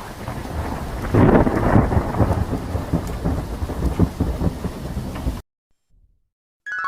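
Thunderstorm sound effect: rain hiss with thunder rumbling, swelling about a second in, then cut off suddenly near the end.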